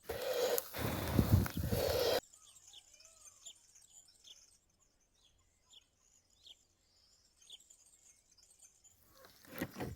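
A loud rushing noise for the first two seconds, cutting off abruptly. Then a bird chirps, short high calls repeated about once or twice a second, and a louder noisy sound returns near the end.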